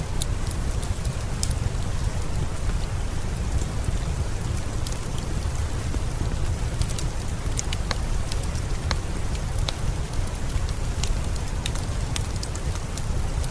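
Steady rain with a deep low rumble, sprinkled with many sharp crackles and ticks, typical of a layered rain and fireplace ambience.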